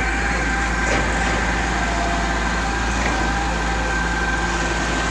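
Diesel-driven concrete machinery, the mini concrete pump and truck mixer, running steadily during a concrete pour, with a steady high whine over the engine noise. Faint ticks come about one second in and again about three seconds in.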